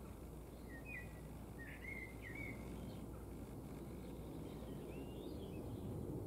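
Small birds chirping in short phrases, a few calls about a second in and again near five seconds, over a steady low outdoor rumble that grows slightly louder toward the end.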